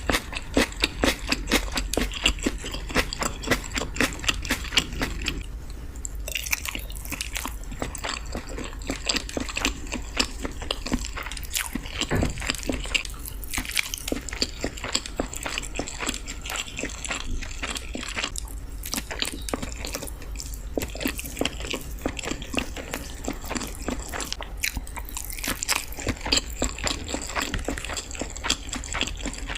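Close-miked ASMR mukbang eating sounds of someone chewing and biting into balado eggs: a dense run of quick, sharp mouth clicks and smacks that goes on without a break.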